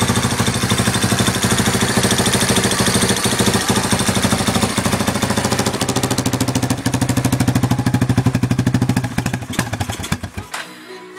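Yamaha Wolverine 350's single-cylinder four-stroke engine running steadily. The engine sound cuts off suddenly near the end and music begins.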